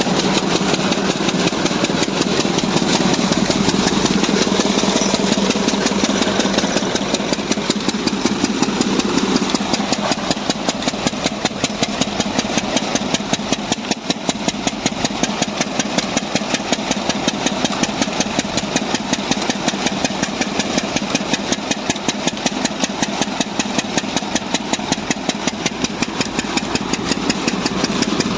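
A 10 hp Lister-type single-cylinder diesel engine running steadily with an even, rapid exhaust beat while it drives a thresher machine.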